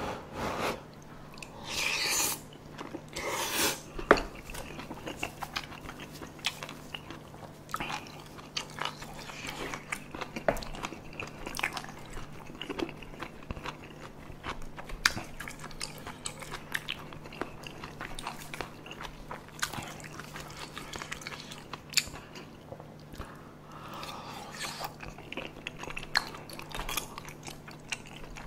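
Close-miked chewing of spicy tteokbokki and boneless chicken feet: many short wet mouth clicks and smacks, with a few louder bursts about two and three and a half seconds in as a spoonful goes into the mouth.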